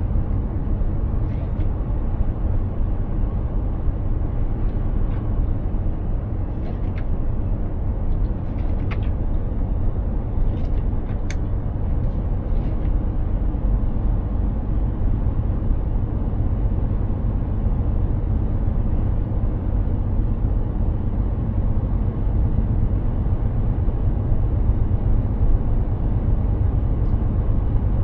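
Mercedes-Benz Actros 2763 truck driving steadily, its big inline-six diesel and tyre noise making a continuous low rumble. A few faint irregular clicks come through in the first half.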